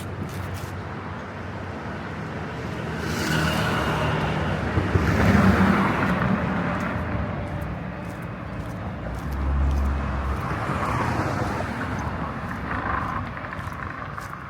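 Street traffic: motor vehicles passing on the road over a steady low engine rumble, swelling loudest about five seconds in and again around ten seconds in.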